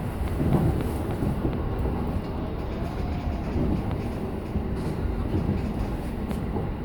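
Running noise of a JR E233 series 7000 electric train heard from inside: a steady rumble of wheels on rail, with a few faint clicks.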